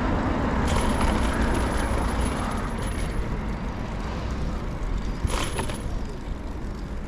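City street traffic noise with a steady low rumble, heard from a moving bicycle. A short hiss sounds about five seconds in.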